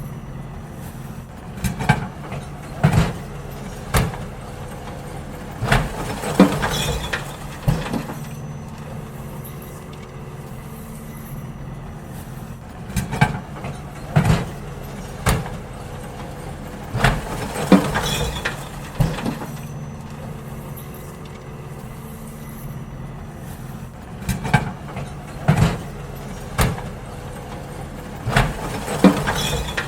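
Garbage truck engine running steadily while bins are emptied into it, with groups of loud bangs and clatters every few seconds as the bins are knocked against the lifter and contents drop in.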